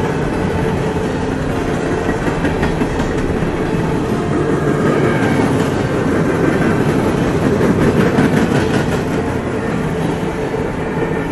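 Freight train cars rolling past close by: a steady rumble and rattle of steel wheels on the rails, with some rhythmic clicking, swelling louder for a few seconds past the middle.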